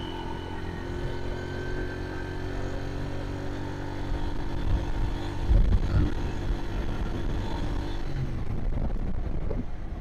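Honda Dream motorcycle's small single-cylinder four-stroke engine running steadily at cruising speed, heard from the rider's seat with road and wind noise. There is a loud gust of wind on the microphone about five and a half seconds in.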